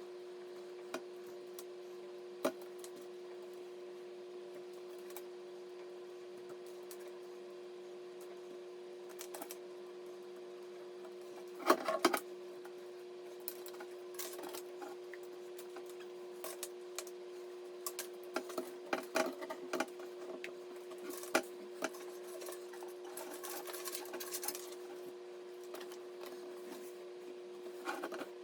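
Scattered small clicks and light taps, as of computer parts and screws being handled, over a steady hum. The clicks come in a short cluster about 12 seconds in and grow frequent in the second half.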